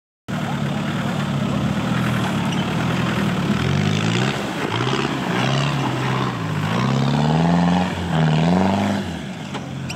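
Range Rover Classic engine revving up and down as the off-roader climbs a steep dirt mound, its pitch rising several times and falling back near the end.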